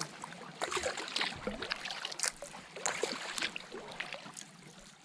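Canoe paddling: a paddle dipping and dripping, with irregular small splashes and trickling water.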